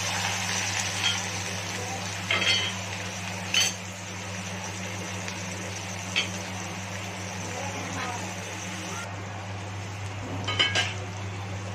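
Chopped onion sizzling in hot oil in a kadhai, a steady frying hiss, with a few sharp metal clinks of a utensil against the pan. A steady low hum runs underneath.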